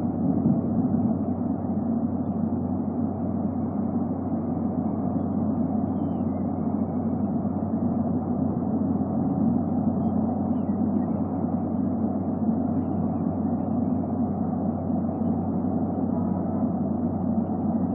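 Steady low rumble of outdoor background noise picked up by the nest camera's microphone, even throughout, with a faint underlying hum.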